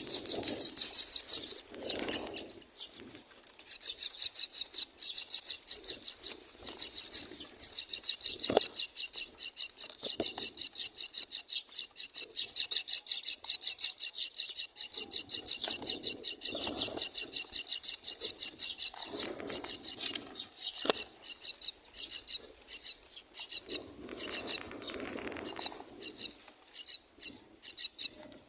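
Common myna nestlings giving begging calls, a rapid run of high, rasping chirps many times a second, with a short lull about two seconds in and thinner calling near the end: chicks begging to be fed.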